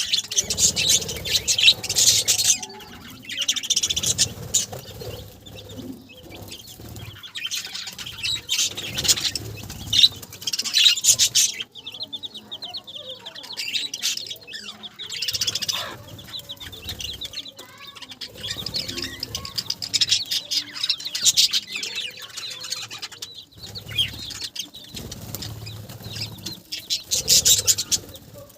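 A flock of budgerigars chirping and chattering in repeated bursts, with wings fluttering.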